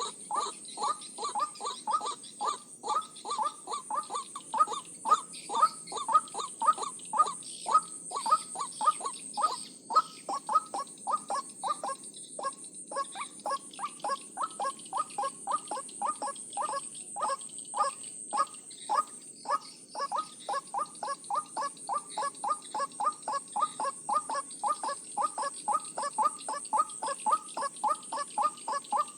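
White-breasted waterhen (ruak-ruak) calling over and over, short notes about three a second without a break. A steady high-pitched whine runs above it.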